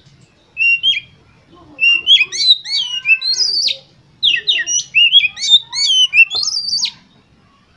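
Oriental magpie-robin (kacer) singing: rapid, varied whistles and chattering notes in three runs, a short phrase just under a second in, then two longer runs of about two and three seconds.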